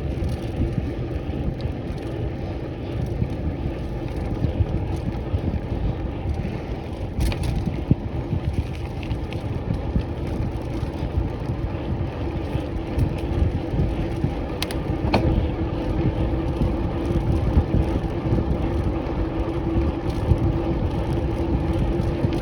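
Bike riding over a rough, bumpy track: a steady rumble of tyres and wind on the microphone, with a steady hum and a few sharp clicks and knocks from the bumps.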